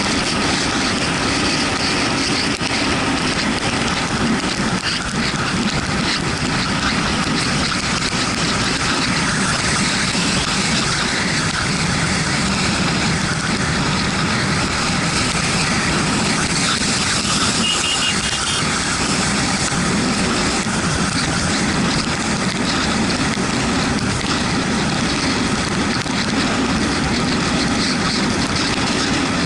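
Yamaha MT-125's single-cylinder engine running steadily while riding on a rain-wet road, under a loud, even rush of wind and road noise.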